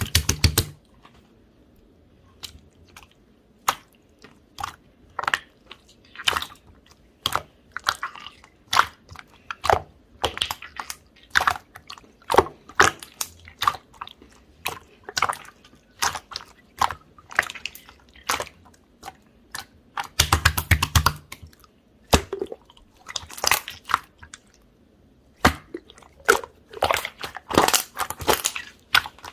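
Chewy, jelly-like slime being squeezed and poked by hand, giving a string of irregular sticky clicks and pops, with denser runs of popping at the start, about two-thirds of the way through, and near the end.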